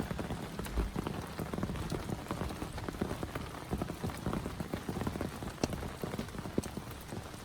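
Heavy rain falling steadily, with many separate drops hitting close by in a dense, irregular patter.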